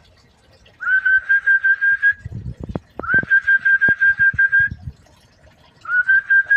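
A person whistling a fluttering trill on one steady note, about seven pulses a second, each trill starting with a short upward slide. It comes twice, each lasting one and a half to two seconds, and a third begins near the end. A few soft low knocks fall between the trills.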